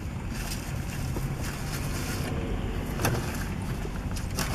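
Chewing and mouth sounds of someone eating a burrito, over a steady low rumble inside a car, with a sharp click about three seconds in.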